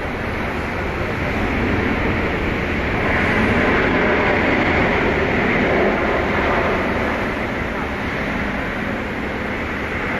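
Jet airliner engines passing: a broad rushing engine noise that builds to its loudest a few seconds in, then slowly eases off.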